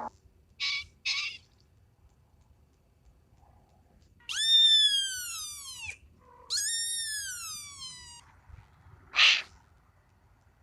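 An animal's call: two long, high-pitched cries, each falling in pitch, following two short rasping sounds. A short hissing burst comes near the end.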